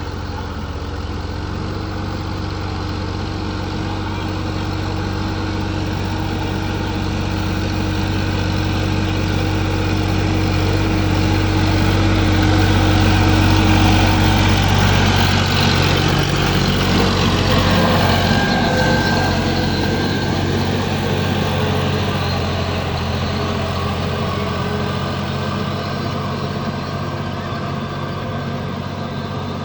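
Sonalika tractor's diesel engine running steadily, growing louder toward the middle and then fading again.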